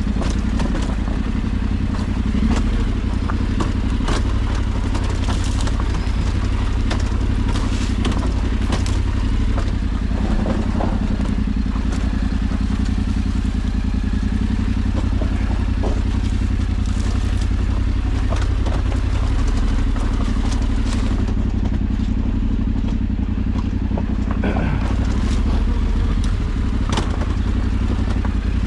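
Off-road motorcycle engine running steadily at low to middling revs, with scattered clatter and knocks over rough ground.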